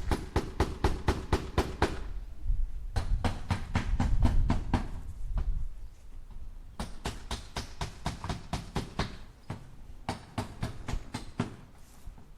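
Hammer driving nails into wood: quick runs of strikes, about five a second, in four bursts with short pauses between them. A low rumble sits under the second burst.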